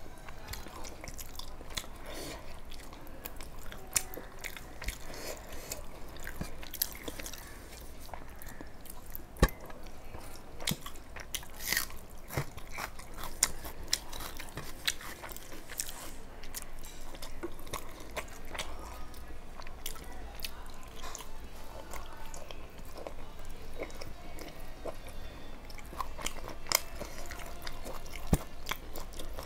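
Close-up eating sounds: chewing and biting, with many scattered sharp clicks and crunches.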